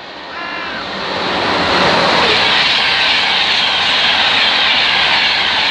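Class 91 electric locomotive-hauled express passing close at speed: a loud rush of wheels on rail and air that builds over about two seconds and then holds. A brief high tone sounds about half a second in.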